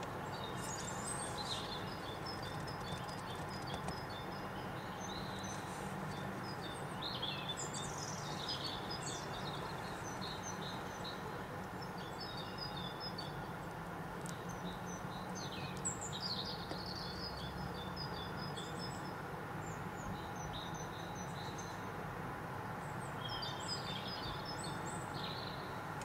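Several small birds chirping and trilling in short, high calls scattered throughout, over a steady low background rumble.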